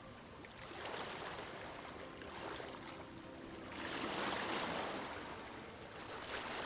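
Sea waves washing in and receding, the surf swelling several times, the largest about four seconds in.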